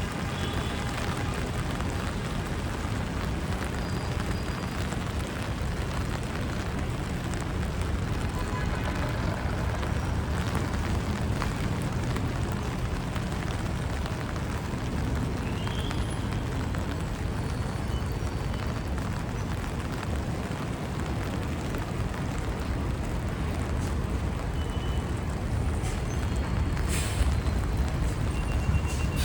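Rainy city street ambience: a steady low rumble of traffic under the hiss of rain, with a short sharp click near the end.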